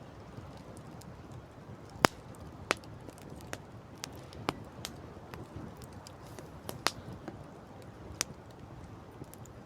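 Campfire crackling: irregular sharp pops and snaps, a dozen or so, the loudest about two seconds in, over a steady background rush.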